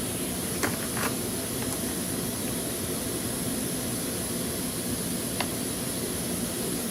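Steady, even background noise, with a few faint clicks of hand work on engine parts: about a second in and again near the end.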